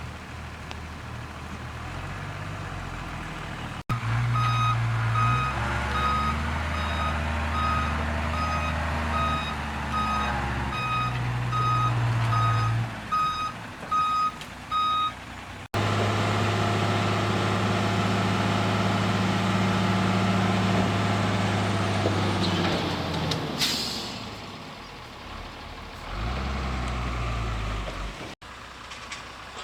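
Diesel truck engine running while the truck reverses, its reversing alarm beeping steadily at about one and a half beeps a second. Later the engine runs on without the beeping, and there is a short hiss of air brakes near the end.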